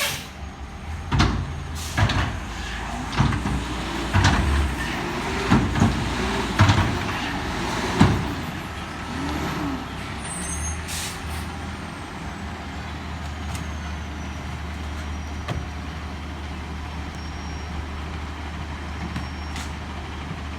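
Peterbilt McNeilus front-load garbage truck running with a steady low engine drone, with a string of loud metal clanks and bangs over the first eight seconds or so, after which only the engine carries on.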